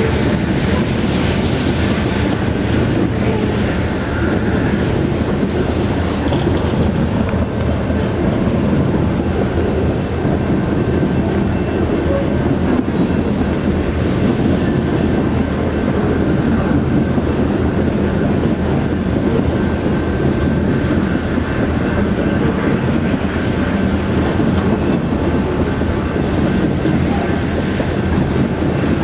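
Loaded coal cars of a long freight train rolling past, a steady rumble and clatter of steel wheels on the rails, with a faint thin squeal from the wheels above it.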